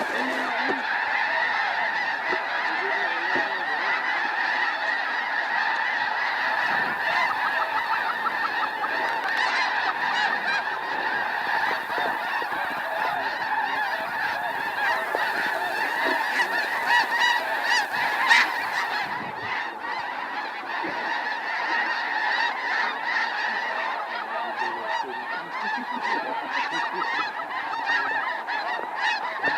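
A huge flock of snow geese calling at once: a dense, unbroken din of overlapping high honks at a steady level, with one brief sharp click about 18 seconds in.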